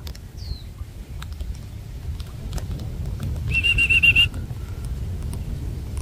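Bird calls: a short, falling whistle about half a second in, then a quick trill of about seven notes between three and four seconds in, over a low rumble.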